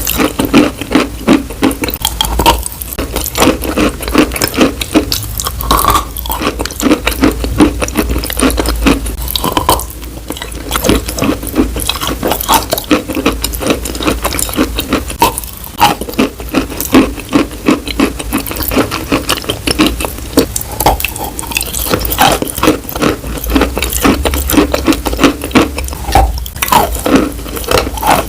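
Continuous rapid tapping and scratching close to the microphone, dense with small clicks and short scraping strokes, with a couple of brief pauses.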